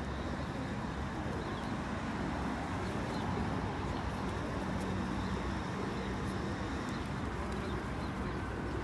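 A flock of feral pigeons faintly cooing over steady outdoor background noise, with a low steady hum for a couple of seconds midway.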